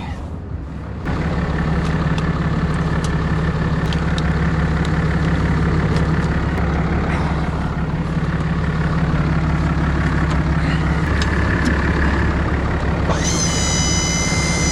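Heavy vehicle engine idling steadily, starting about a second in. A high whine comes in near the end.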